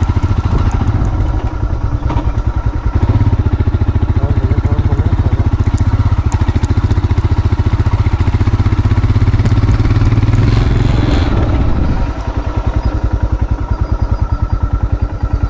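Motorcycle engine running on the move with a steady rapid beat. It becomes quieter about twelve seconds in but keeps running.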